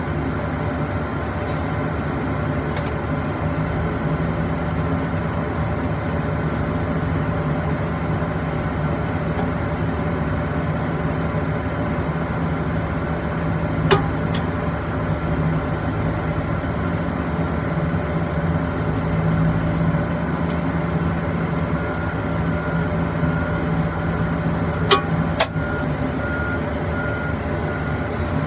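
Engine of an aircraft pushback tug running steadily with a low, even hum. A sharp click comes about halfway through and two more come near the end, and a faint pulsing beep starts in the last few seconds.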